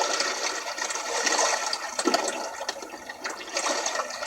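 Lake water washing and splashing at the shoreline, a steady rushing that swells and ebbs in surges.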